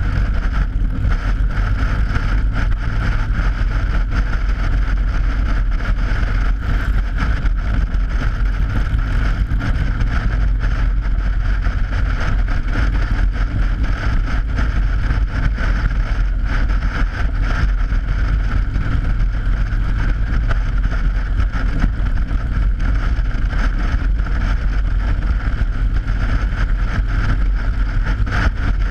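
Motorcycle riding at a steady speed over an open steel grate bridge deck: a loud, unbroken drone of tyres on the grating and the engine, with wind rushing over the camera's microphone.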